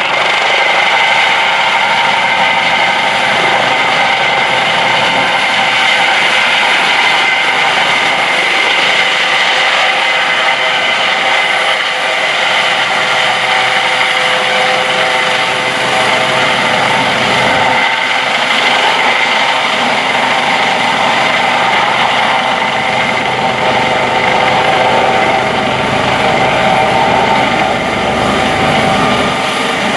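US Coast Guard MH-65 Dolphin helicopter running loud and steady while it holds close over the water for the recovery of the swimmer, a high whine sitting over the rotor noise.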